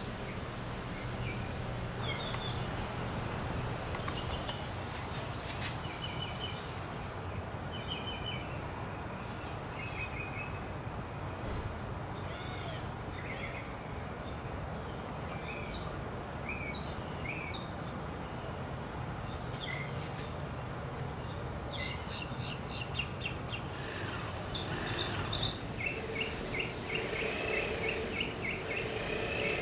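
Backyard songbirds chirping and calling in short scattered notes over steady low background noise, with a rapid run of ticking calls and then a fast chattering trill near the end.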